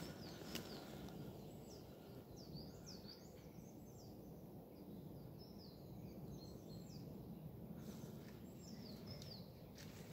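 Faint songbird calls: a string of short, high notes that each slide downward, repeated many times over a steady low rumble.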